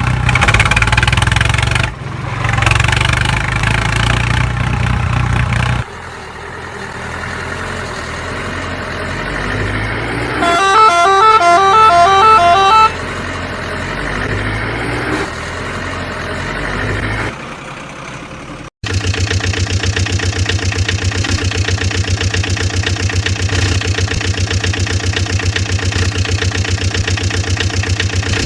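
Vehicle engine sounds in several edited segments, with a two-tone musical horn tune playing for about two seconds in the middle. After a short cut, a steady, evenly pulsing engine chug runs on.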